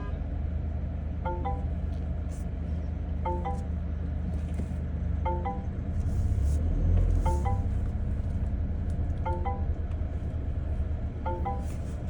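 A two-note chime repeating about every two seconds over a steady low rumble that swells briefly around six to seven seconds in.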